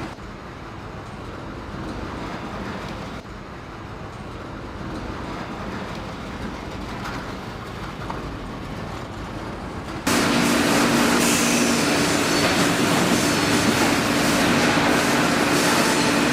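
Sawmill machinery running with a steady rattling noise; about ten seconds in it suddenly becomes much louder, with a steady hum added.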